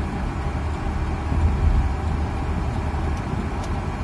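Ford F250 pickup truck cruising on the highway: steady low engine and road rumble.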